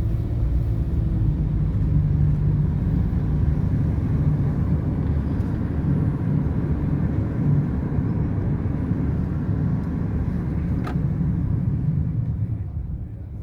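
A car driving, with a steady low rumble of engine and road noise that eases off near the end. There is one short click about eleven seconds in.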